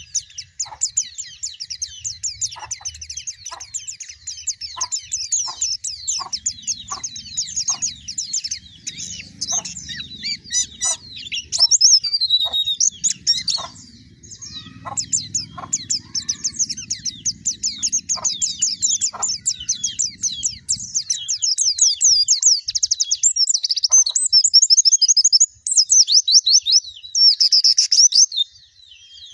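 Pleci (white-eye) song: a long, fast, high twittering warble of chirps that runs on with hardly a break, a lure call for white-eyes. Short lower single notes sound under it about once a second through the first two-thirds, with a faint low rumble in the middle.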